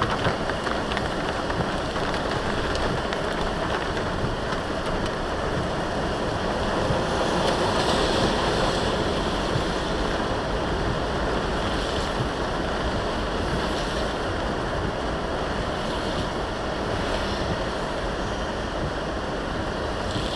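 Steady rush of a vehicle driving in heavy rain: rain and wet-road tyre noise, swelling slightly about eight seconds in.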